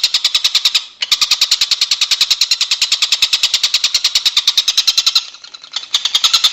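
A songbird's rapid rattling trill, played as a masteran recording: a long run of evenly spaced, high sharp notes at roughly ten a second, broken by two short pauses.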